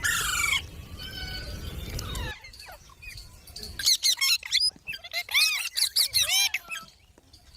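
Baby green parrot calling: a harsh squawk right at the start, then a low rumbling noise for about two seconds. Around the middle comes a quick run of short, high, arched chirps.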